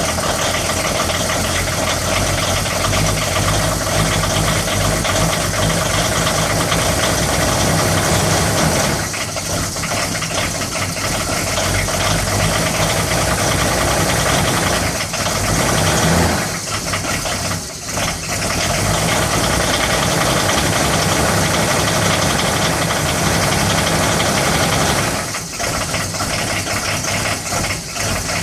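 Volvo 940's D24TIC 2.4-litre six-cylinder turbodiesel running just after a cold start at −12°C on glow plugs alone, with no grid heater. The sound dips briefly a few times.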